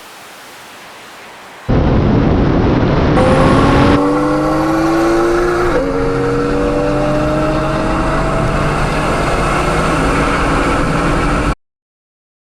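Car engine accelerating hard under heavy wind and road noise, its pitch rising, dropping at an upshift about six seconds in, then rising again before levelling off.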